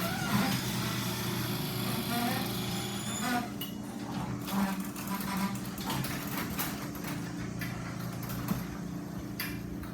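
LiftMaster garage door opener motor running steadily as it drives the door, a steady mechanical hum.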